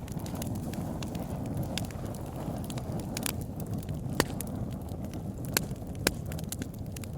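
Campfire burning with a steady low rumble and scattered sharp crackles and pops, a few louder ones about four, five and a half and six seconds in.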